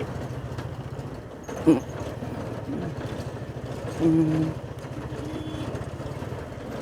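Motorcycle engine running steadily while riding over a rough, broken road, with wind noise on the microphone. A brief sharp sound comes near two seconds in, and a short steady tone, the loudest sound here, comes about four seconds in, with a fainter one soon after.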